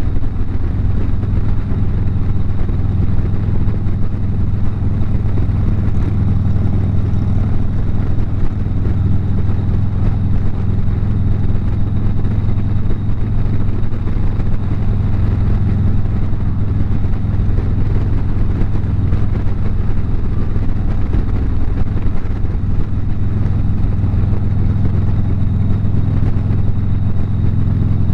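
Harley-Davidson V-twin motorcycle engine running steadily at highway cruising speed.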